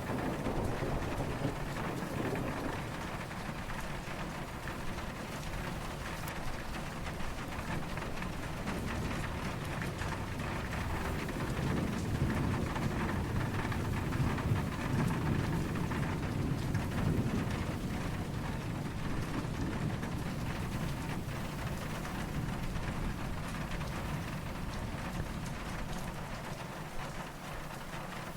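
Steady rain falling, with a low rumble of distant thunder swelling and fading in the middle.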